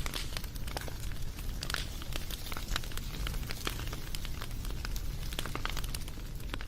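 Wood fire crackling: many irregular sharp pops and snaps over a low, steady rumble.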